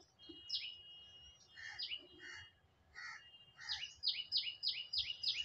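A small bird chirping: a few scattered high, falling chirps, then a quick run of about five a second near the end.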